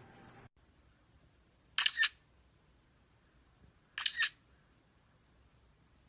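Two short, sharp double clicks about two seconds apart, like a camera shutter firing twice, with near silence around them.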